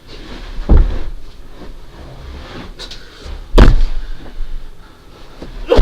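Two heavy thumps about three seconds apart, like a door being banged shut, with quieter knocking and handling noise between.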